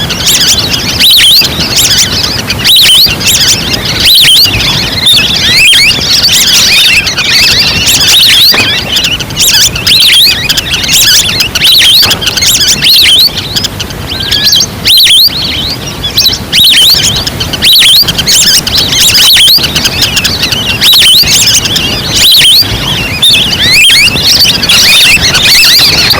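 Recorded calls of a flock of wild ducks used as a hunting lure: many short, high chirping whistles crowding over one another without a break.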